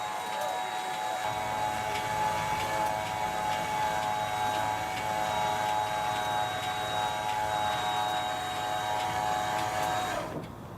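Electric landing-gear motor of a 2006 Keystone Montana fifth-wheel trailer running steadily with a high whine as it drives the legs down, then cutting off near the end.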